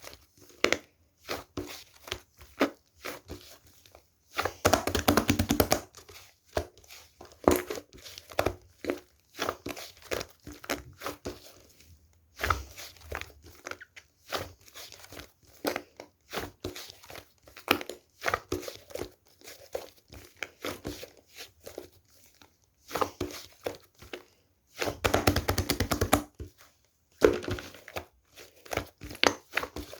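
Cloud slime being stretched, pressed and poked by hand, giving off a continuous run of crackles, pops and tearing sounds, with two longer, louder stretches of dense crackling near 5 and 25 seconds in.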